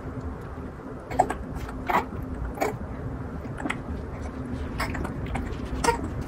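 An infant feeding, her mouth making short wet sucking clicks and smacks every second or so, over a faint steady hum.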